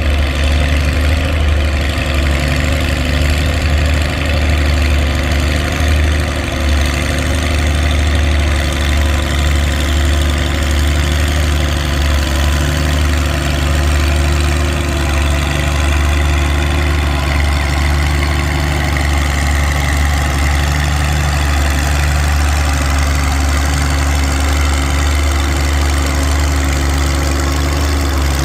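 Oliver 70 tractor's six-cylinder engine running steadily at an even speed, a loud low drone with no revving up or down.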